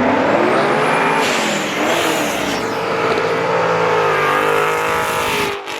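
A car engine revving hard through a loud exhaust, its pitch rising and falling, over a rough hiss of noise. It cuts off abruptly near the end.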